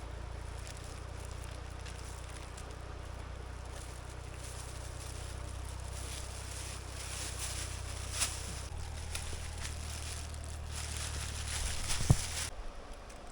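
Outdoor fire crackling and snapping over a steady low rumble, with a sharp snap about eight seconds in and a low thump near the end.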